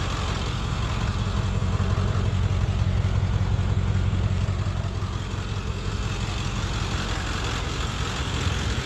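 Ford 7.3 Powerstroke V8 turbo-diesel idling steadily.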